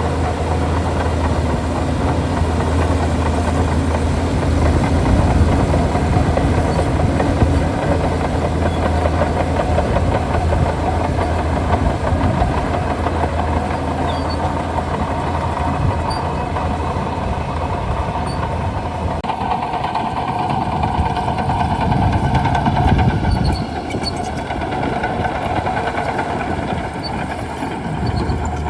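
Shantui DH17C2 bulldozer's diesel engine running steadily. About two-thirds of the way through, its deep low hum drops away and a higher engine tone comes up; the deep hum returns near the end.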